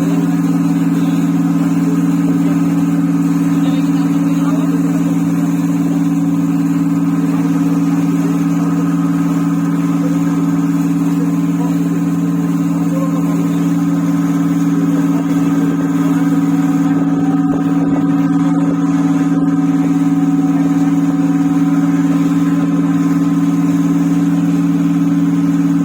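A boat engine running steadily: a loud, constant low drone that holds the same pitch throughout.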